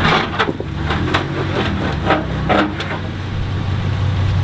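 An off-road truck's engine running low and steady as it crawls over rock, with several sharp knocks and crunches from tyres and underbody on the rock in the first three seconds.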